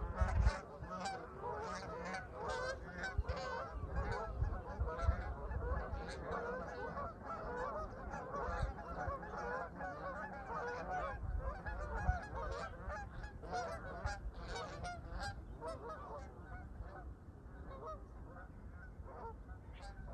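A flock of Canada geese honking continuously, many overlapping calls, with wind gusting on the microphone.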